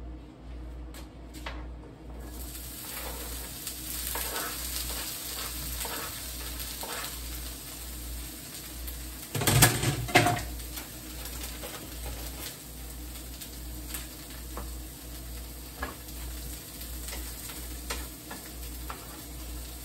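Diced onion and green bell pepper sizzling in a hot pan on a gas stove, the sizzle starting about two seconds in as they go in. A utensil clicks now and then against the pan, and there is one loud clatter about ten seconds in.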